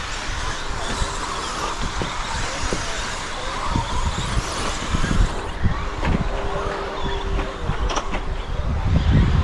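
Radio-controlled stadium trucks racing around the track: a steady hiss of motors and tyres, with low rumbles and thumps, and a sharp knock about 8 seconds in.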